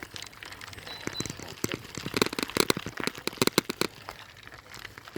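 Bicycle clattering over a rough track: a run of irregular sharp cracks and knocks, thickest in the middle.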